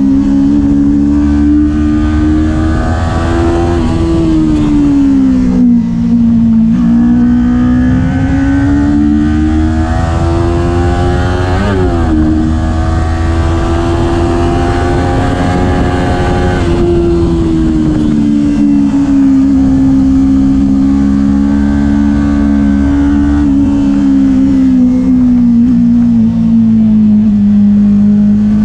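Kawasaki Ninja 400's parallel-twin engine running while riding, its pitch rising and falling slowly with throttle and road speed, with a quick pitch jump about twelve seconds in.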